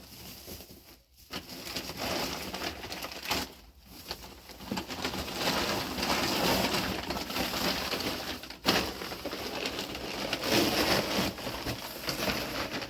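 Plastic bags rustling and crinkling as they are handled, a dense crackle that grows louder about five seconds in.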